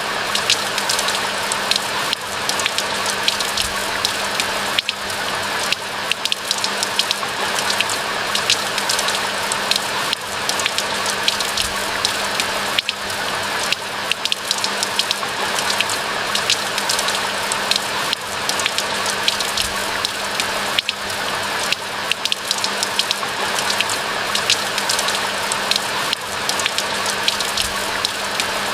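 Steady rain falling: a constant hiss made of countless close drop ticks, with no change through the stretch.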